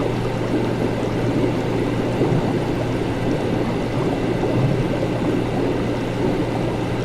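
Laboratory ambience: a steady low electrical hum under a continuous, even, watery bubbling noise, with no changes or distinct events.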